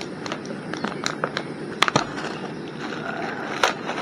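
Plastic ramen noodle packet being handled and opened: irregular crinkling and sharp clicks, one louder snap near the middle, over a steady low hiss.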